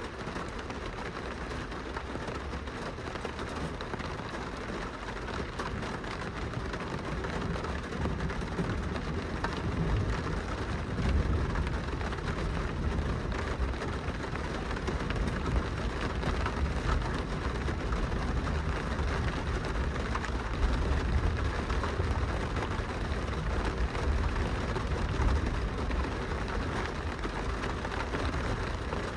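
Steady rain pattering on glass, over a low rumble that grows louder about a third of the way in.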